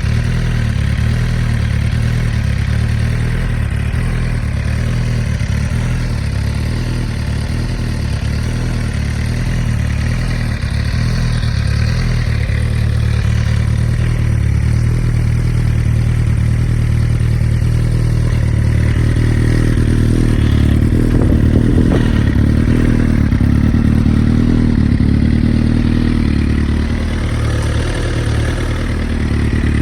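2009 Suzuki GSX-R1000's inline-four engine running at a steady idle, getting a little fuller for several seconds past the middle before settling back.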